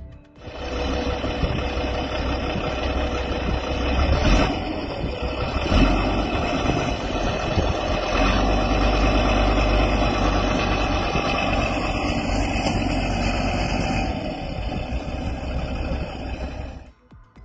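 A vehicle engine running steadily with a deep rumble. Two louder knocks come about four and six seconds in.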